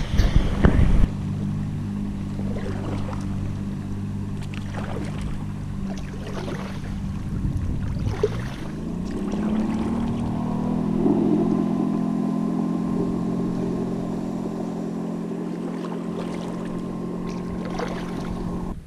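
Motorboat engine running slowly as the boat passes close by; about eight seconds in its pitch rises and then holds higher as the boat speeds up again. A few loud knocks sound in the first second.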